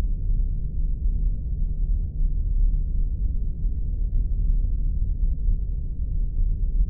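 Spaceship engine-room ambience sound effect: a steady deep rumble, heaviest in the lowest bass, with nothing higher above it.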